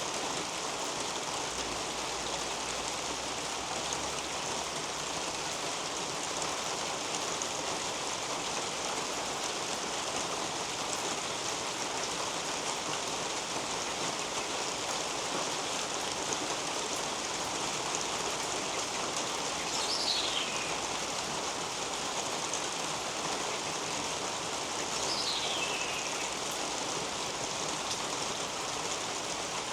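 Steady rain falling on garden leaves and on a roof overhead. A bird gives two short, falling whistles, the first about two-thirds of the way through and the second about five seconds later.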